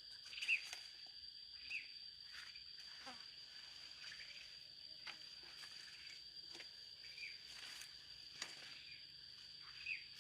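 Insects droning in one steady high tone, with a few short bird chirps and scattered light clicks.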